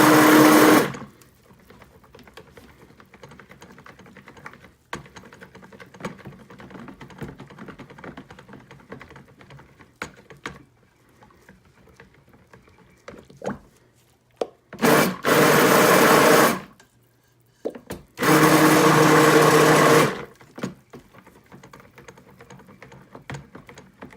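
Handheld stick blender running in short pulses in soap batter: a burst of about a second at the start, two close together about fifteen seconds in, and a last one of about two seconds a few seconds later. The blender is pulsed rather than run steadily so as not to over-blend the batter.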